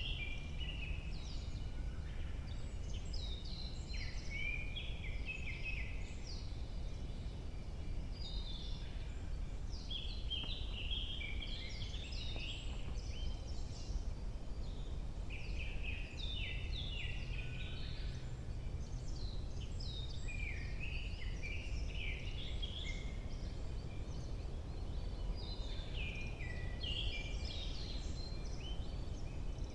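Several songbirds singing in a forest, their short chirps, trills and phrases overlapping without a break, over a steady low rumble.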